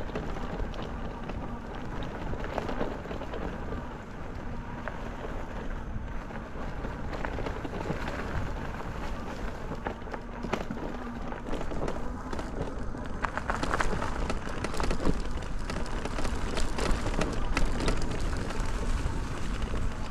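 Folding e-bike riding over a rough trail: tyres rolling on the ground with a steady low rumble, and scattered clicks and rattles from the bike. It gets a little louder about two-thirds of the way through.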